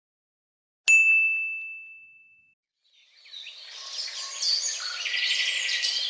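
A single bright ding, like a small bell struck once, ringing out and fading over about a second and a half. From about three seconds in, birds chirping over a steady outdoor ambience.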